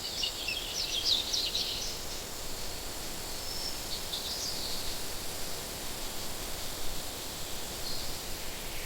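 Birds chirping over a steady hiss-like background. A flurry of quick high chirps fills roughly the first two seconds, a shorter burst comes about four seconds in, and a faint one comes near the end.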